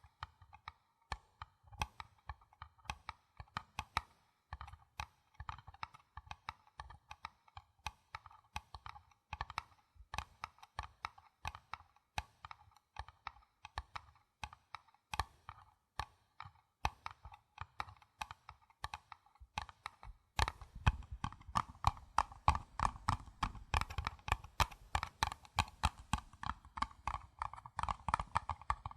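Paper cups being tapped in a quick, irregular patter of light taps, each carrying the same hollow tone. About twenty seconds in, the tapping turns denser and louder, with more thud under each tap.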